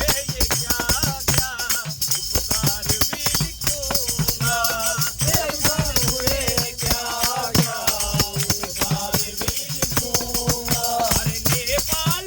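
A group of men singing a Hindu devotional bhajan in kirtan style. The wavering melody is carried over a fast, steady beat of jingling, rattling hand percussion.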